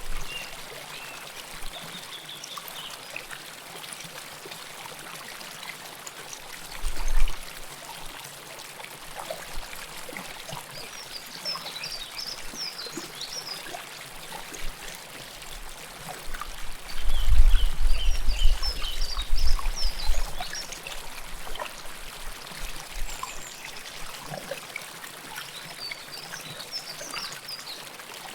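River water flowing and trickling steadily, close to the recorder. Short high chirps come in a few bouts over the water, and a low rumble swells briefly about a quarter of the way in and again, louder, for a few seconds just past the middle.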